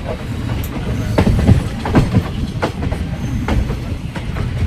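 A train moving along the rails: a heavy low rumble with irregular clanks of the wheels over rail joints.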